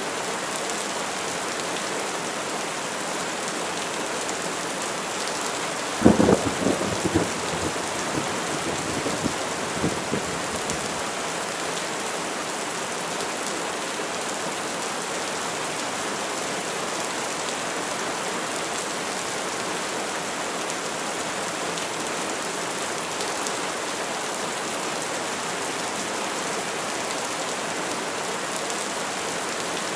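Steady rain falling, with a sudden crack of thunder about six seconds in that crackles and rumbles on for about five seconds before the rain alone continues.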